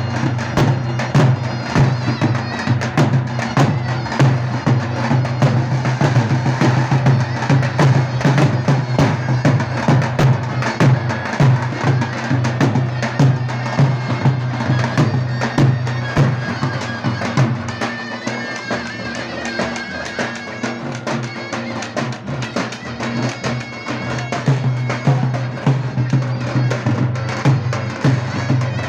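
Davul and zurna playing a dance tune: the shrill double-reed zurna carries the melody over steady, repeated beats of the big two-headed davul drum.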